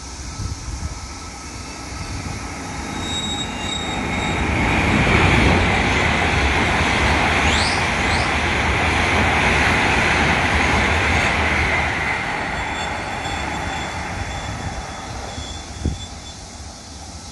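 E7 series shinkansen passing at high speed without stopping: a rushing noise of wheels and air that builds over a few seconds, holds steady while the train goes by, then fades away. A brief rising whistle about halfway through, and a short thump near the end.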